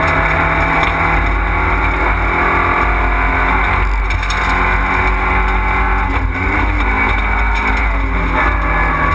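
Fiat Panda rally car's engine running hard, heard from inside the cabin, its pitch dropping and climbing again a few times as the revs change through the stage.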